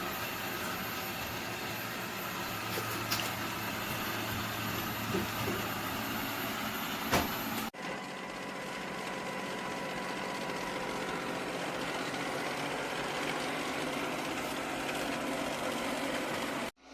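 eufy L60 robot vacuum running with a steady whirring hum, with a couple of faint clicks. The sound drops out abruptly for an instant about halfway through.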